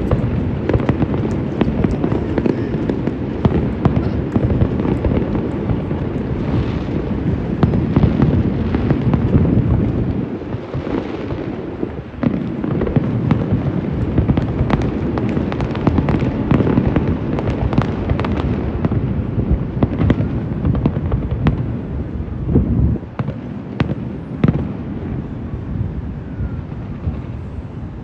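Fireworks display: a dense, continuous barrage of bangs and crackles over a heavy low rumble, easing briefly about ten seconds in and again near the end.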